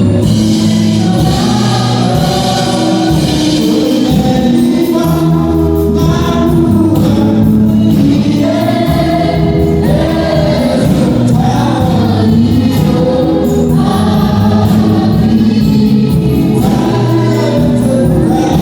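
Gospel music: a choir singing over steady low accompaniment, loud and even throughout.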